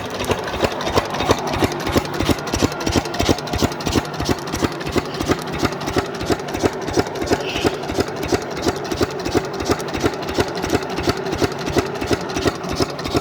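Lister 6 hp single-cylinder diesel engine running steadily at idle, with an even, regular beat.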